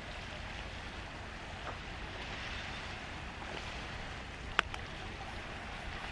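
Steady outdoor wind-and-water noise, with one sharp click about four and a half seconds in.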